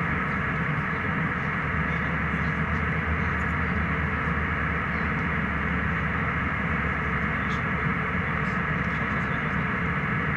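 Steady engine and airflow noise heard inside the cabin of a jet airliner in flight, unchanging throughout.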